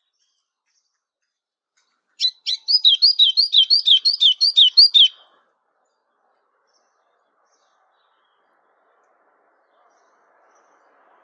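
A songbird singing one phrase: a quick run of about a dozen repeated down-slurred whistled notes over about three seconds, starting about two seconds in.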